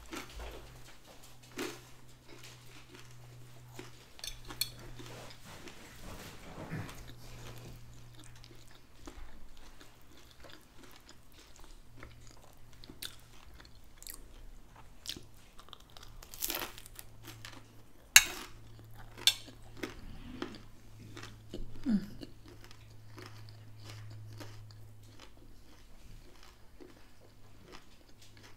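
Close-miked chewing and crunching as a person eats a crisp pizza-dough taco empanada with shredded lettuce, with a run of small crackles and a few sharper, louder snaps in the second half. A faint steady low hum lies underneath.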